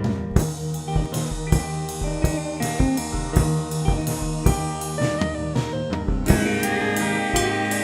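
Rock band music: the drum kit comes in at the start with a steady beat of about three hits a second under electric guitar. About six seconds in, held guitar notes ring out more strongly over the beat.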